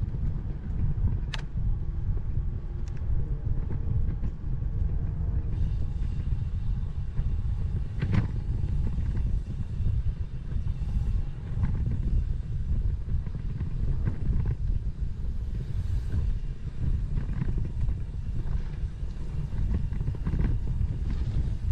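Wind buffeting a GoPro Max 360 camera's microphone while cycling, a steady low rumble, with a couple of sharp clicks about a second in and about eight seconds in.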